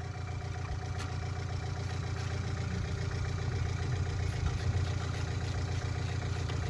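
Engine idling steadily with a low, even drone, and a single faint tick about a second in.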